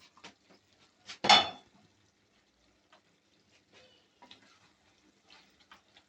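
Metal kitchen utensils and cookware knocking together: scattered light clicks and clinks, with one loud ringing clank about a second in.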